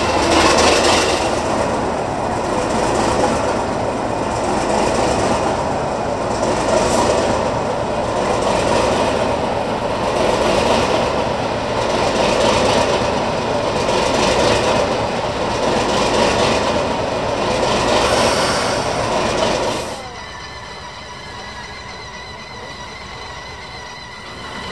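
Train rolling slowly along the track, wheels clacking over the rail joints about every two seconds. The sound falls away abruptly about twenty seconds in, leaving a quieter background.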